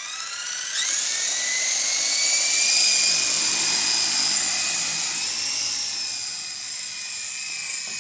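Model helicopter's motor and rotor spooling up: a whine that rises in pitch over the first second, then settles into a steady high whine.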